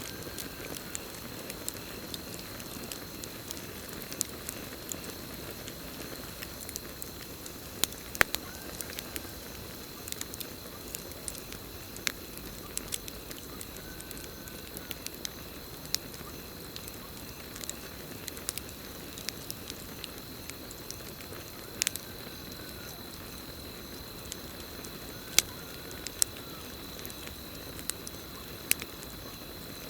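Campfire burning, with irregular sharp crackles and pops over a steady hiss. Behind it runs a continuous high insect trill, and a faint short call comes every several seconds.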